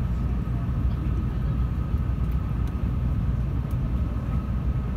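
Cabin noise of a 700 Series Rail Star Shinkansen pulling slowly out of a station: a steady low rumble with a faint, steady high hum and a few light ticks.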